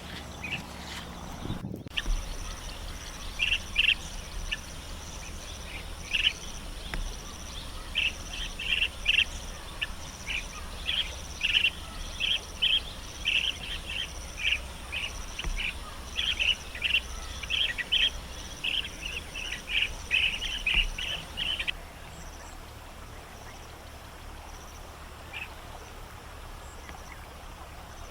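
Small birds calling with short, sharp chirps repeated about once or twice a second, over a faint steady high pulsing and a low outdoor rumble; the chirps stop about three-quarters of the way through.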